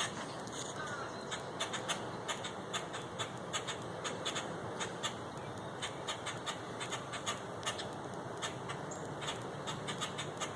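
Starlings giving many short, harsh calls and clicks in an irregular run: scolding alarm calls of birds mobbing a cat.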